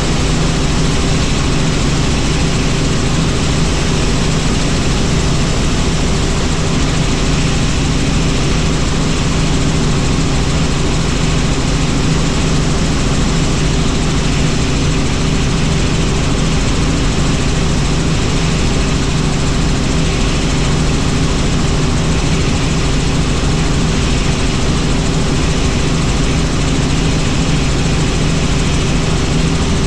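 Helicopter in flight: the steady drone of its rotor and engine, a constant low hum over a hiss, with no change in pitch or level.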